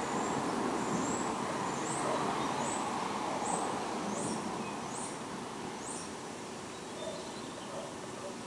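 A small bird repeating a short, high, rising chirp over and over, stopping about six seconds in, over steady outdoor background noise that eases off partway through.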